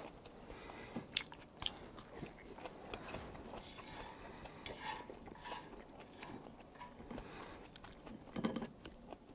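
A person chewing and eating tteokbokki (stir-fried rice cakes), with scattered small clicks and mouth sounds and a louder burst about eight and a half seconds in.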